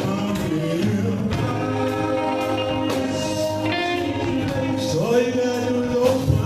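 Live gospel group music: male voices singing over a band with guitar and a steady beat.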